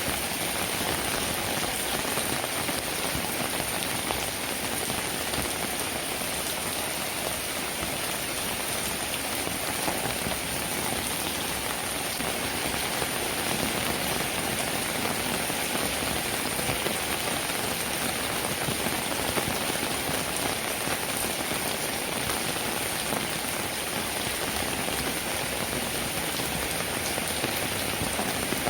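Steady rainfall: an even, unbroken hiss of many raindrops, holding level throughout.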